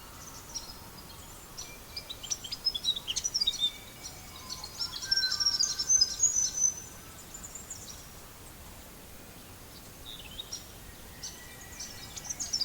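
Small birds chirping in two busy spells of quick, high calls, a couple of seconds in and again around the middle, with more chirps starting near the end, over a steady faint hiss.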